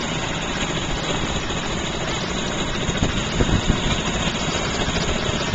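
Bumper boat's small motor running steadily, with a few light knocks a little past the middle.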